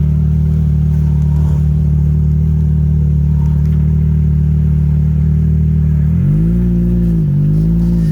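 Can-Am Maverick X3's three-cylinder turbocharged engine running at a steady speed while it crawls downhill over rocks. About six seconds in, it revs up and drops back twice.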